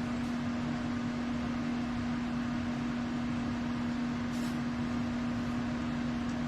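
Steady hum of a running motor or fan at one constant pitch, with a faint brief rustle about four and a half seconds in.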